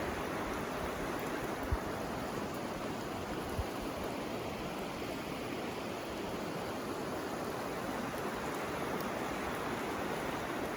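A river flowing steadily, a constant rushing of water. Two soft low thumps come through, about two and three and a half seconds in.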